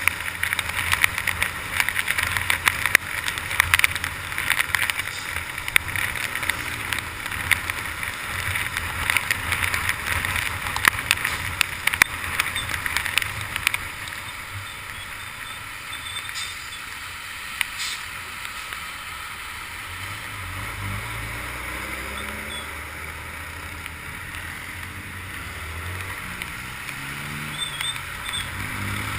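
Rain and wind buffeting a camera in its waterproof case, with dense crackling raindrop hits for the first half. Then it settles to a quieter rush under which the Honda CG 150 Titan's single-cylinder four-stroke engine is heard, its pitch rising as the bike accelerates, twice near the end.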